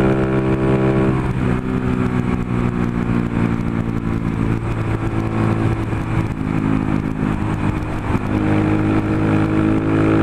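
Honda Pop 110's small single-cylinder four-stroke engine running at road speed, with wind rushing over the microphone. Its note drops about a second in as the throttle is eased, holds lower, then climbs slightly near the end.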